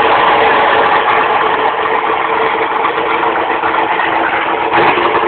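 1969 Camaro drag car's engine idling loud and steady, with the choppy note of an aggressive ('nasty') camshaft.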